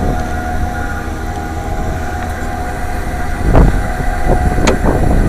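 AAON 5-ton rooftop HVAC unit running with a steady hum and rumble from its fan motor, whose bearings are going out; it is making all sorts of racket. A few knocks come in the second half.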